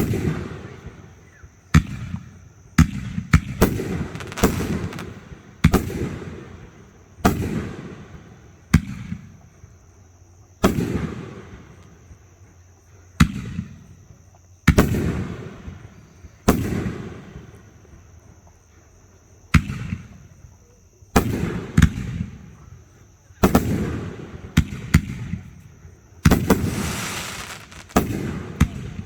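Aerial fireworks going off one after another, a sharp boom every one to two seconds, each with a rumbling echo tailing away. A longer crackling burst comes near the end.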